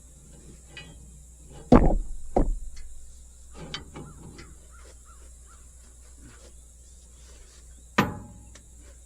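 Heavy knocks and clanks of hitch and implement work on a bush hog: two loud thumps close together about two seconds in, a few lighter knocks, and another thump near the end, over a steady low hum.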